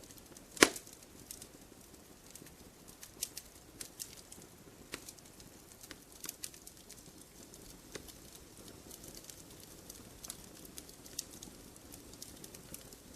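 Wood campfire crackling: one loud pop about half a second in, then scattered small snaps and ticks over a low steady hiss.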